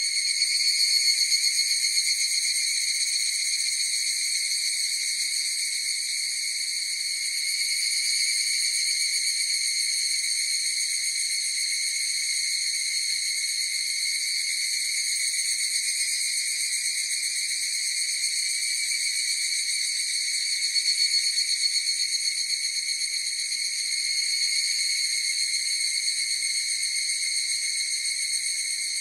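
A chorus of higurashi evening cicadas (Tanna japonensis) calling without a break in a high, ringing drone that swells in loudness a few times.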